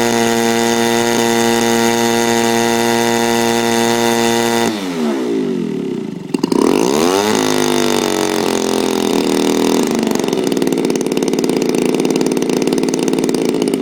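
Zenoah G38 two-stroke petrol engine of a quarter-scale model aeroplane running steadily at high throttle, then throttled back about five seconds in: the pitch falls away, rises briefly once more and settles into a steady idle. It is a run-up of a magneto-ignition engine that runs after two years of sitting.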